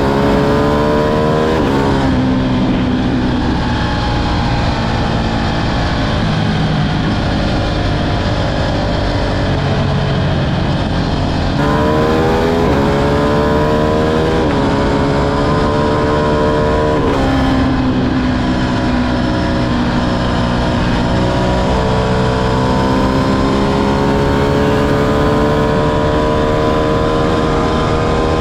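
Ducati Streetfighter V2's twin-cylinder engine being ridden hard, its pitch climbing steadily under acceleration and changing abruptly at several gear changes.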